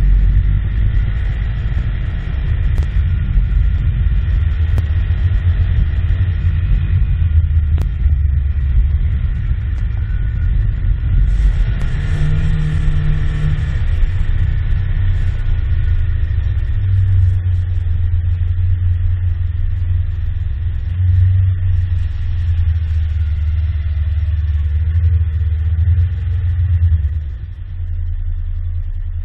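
Engine running with a heavy, steady low rumble, a short burst of higher-pitched noise about twelve seconds in, and a drop in the rumble near the end.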